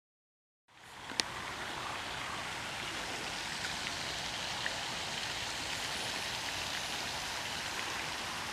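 Steady rushing noise of running water that cuts in suddenly about a second in, out of dead silence, with one sharp click just after.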